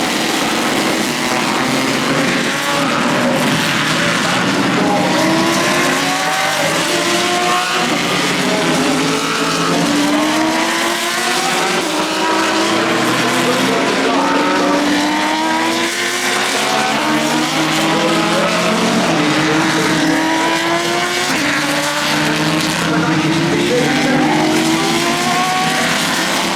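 A stream of race cars passing one after another on a wet track, each engine's pitch rising and falling as it goes by, over a steady hiss of tyre spray.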